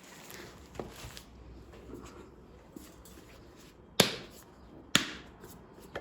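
Household handling sounds: faint rustling and small clicks, then two sharp knocks about a second apart near the end, like objects set down or struck on a hard surface.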